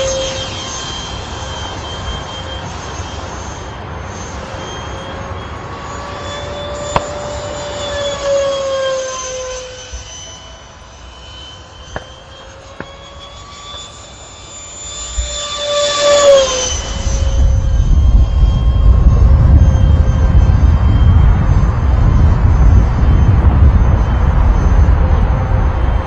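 Electric ducted fan of an RC model F-22 Raptor jet in flight: a high whine that rises and falls in pitch with throttle and passes, fades for a few seconds, then swells and drops sharply in pitch as it flies past about sixteen seconds in. After that a loud low rumble takes over, with the fan whine faint beneath it.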